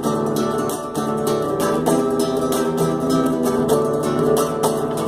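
Acoustic guitar strummed in a steady rhythm, about four strokes a second: the instrumental close of a sung gospel song.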